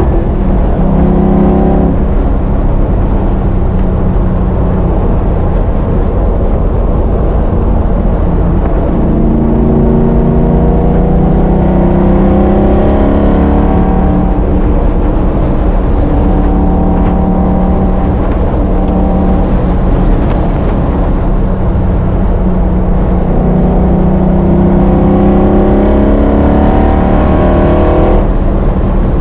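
Ford Coyote V8 of a Factory Five Type 65 Daytona Coupe at full race pace, heard from inside the cabin: the engine note climbs again and again under hard acceleration and drops back between pulls.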